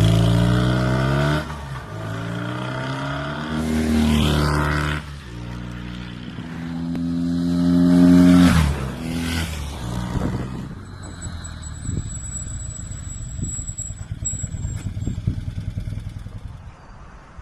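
BMW R90S air-cooled flat-twin engine accelerating hard through the gears, its pitch rising in three pulls broken by gear changes. About ten seconds in it drops to a quieter, uneven low putter.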